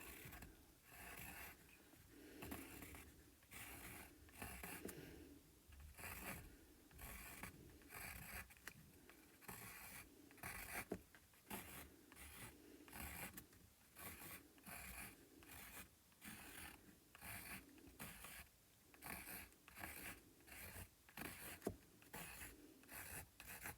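Faint scratchy strokes of sketching on paper, short strokes repeating about once a second.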